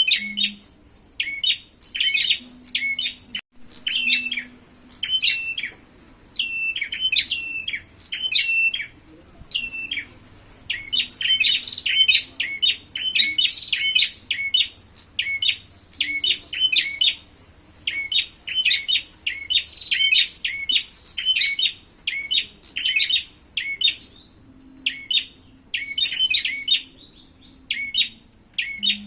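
Prenjak (prinia) birds calling in rapid runs of sharp, repeated chirps with short pauses between bursts. These are the agitated calls of birds in a fight.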